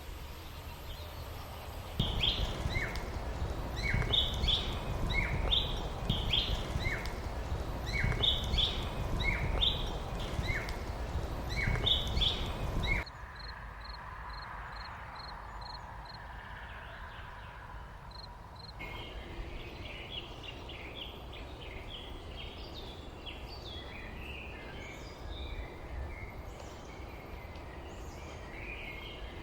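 Outdoor birdsong in edited segments. First, one bird repeats a short call about once a second, a high note dropping to a lower one, over a steady low rumble. This cuts to a quieter stretch of faint, high chirps, then to many small birds chirping and twittering together.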